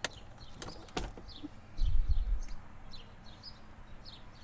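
Glove box of a 2007 Honda Accord being worked: a sharp latch click or two, then a low dull thump about two seconds in as the door moves. Small birds chirp repeatedly in the background.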